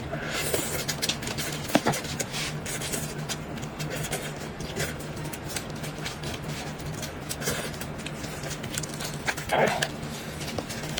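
Close-miked eating of sweet potato noodles: wet chewing with frequent mouth clicks and smacks over a steady low hum, and a louder slurp about nine and a half seconds in.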